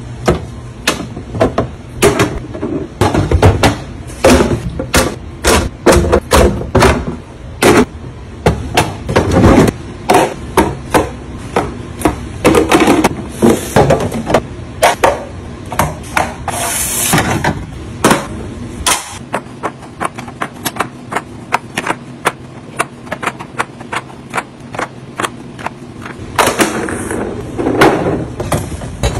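Household items and containers being handled and set down: a rapid, irregular series of knocks and clacks, with a brief hiss a little past the middle.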